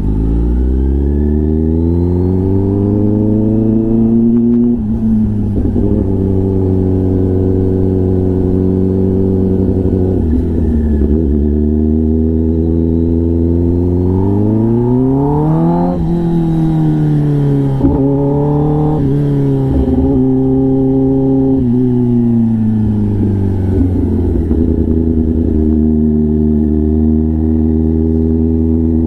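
Kawasaki Ninja ZX-10R's inline-four with an SC-Project exhaust, ridden on the road. The engine note climbs and steps back down at gear changes around 5 and 10 seconds in. It rises to a peak about 16 seconds in, then falls as the bike slows, and settles into a steadier note near the end.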